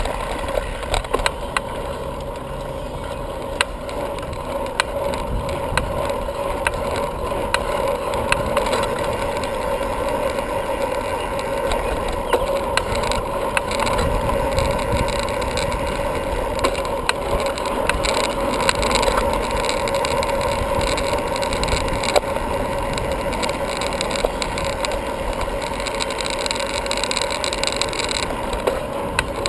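Bicycle in motion: a steady rolling noise from tyres and road, with scattered sharp clicks and rattles.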